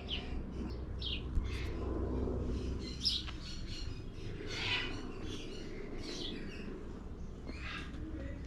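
Birds chirping: many short, high calls scattered throughout, over a low steady background rumble.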